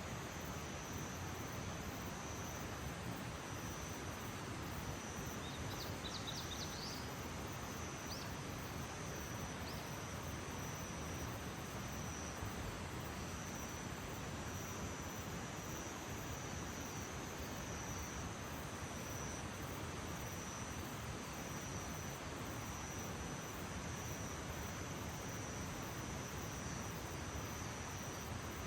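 Early-morning outdoor ambience: an insect trilling steadily at a high pitch over a constant low hiss, with a few short bird chirps about six to eight seconds in.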